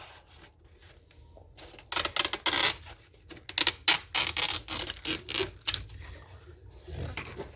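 Hand sanding with 100-grit sandpaper on the engine's iron, in short irregular scratchy strokes, to take out a scoring mark.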